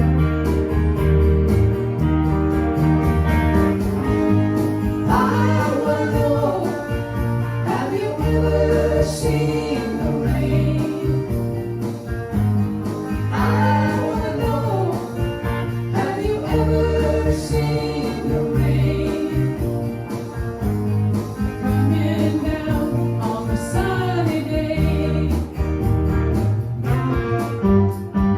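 Guitar music: strummed chords over a steady pulsing bass line, with a wavering melody line coming in every few seconds.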